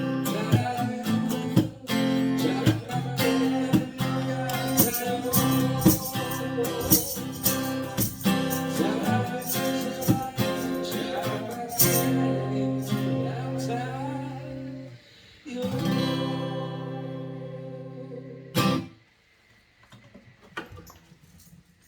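Acoustic guitar strumming chords, the strokes thinning out about halfway through into held chords. A final chord rings and fades, then one last sharp strum, followed by a few faint clicks as the playing stops.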